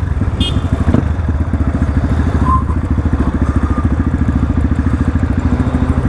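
A Crossfire RM250 250 cc dirt bike's engine running at steady revs, its exhaust beat even throughout.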